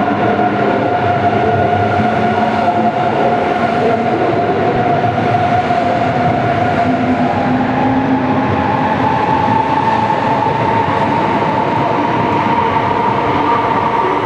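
Train running past close by: a steady rumble with a whine that climbs slightly in pitch about halfway through.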